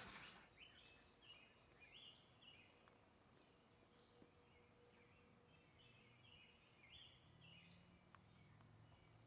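Near silence: faint outdoor ambience with distant birds chirping in short repeated notes.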